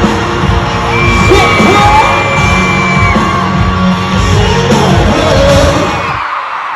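Loud music over a stadium sound system with a crowd screaming and whooping over it; the music cuts off suddenly about six seconds in, leaving the crowd noise.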